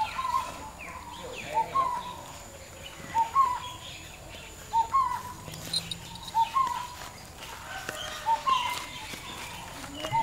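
A bird calling, a short two-part note repeated steadily about every second and a half, with fainter chirps from other birds.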